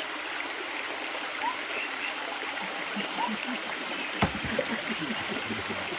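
Steady rush of flowing water, like a stream running, with a few faint short chirps over it and one low knock a little past four seconds in.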